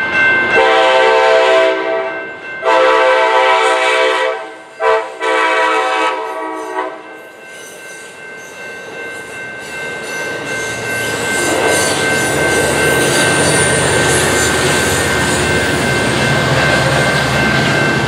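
Amtrak Pacific Surfliner train sounding its horn at a grade crossing in the long, long, short, long pattern, the last blast ending about seven seconds in. The train then passes close by with a building rumble of wheels on the rails, while the crossing's warning bell rings steadily.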